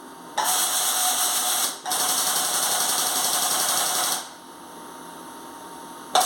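Compressed-air hand tool running off a workshop compressor in two bursts of about one and a half and two and a half seconds, with a brief break between them, then starting up again near the end, a steady hissing buzz.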